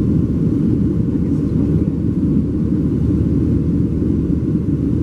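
Steady low rumble of a Boeing 737-700's CFM56 turbofan engines and rushing airflow, heard inside the passenger cabin during the climb after takeoff.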